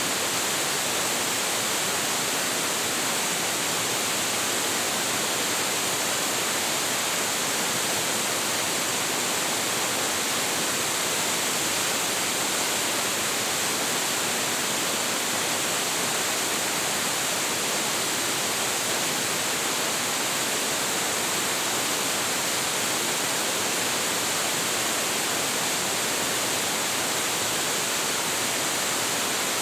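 Large waterfall, about 26 m high with heavy flow, crashing into its pool in a steady, unbroken rush of white noise.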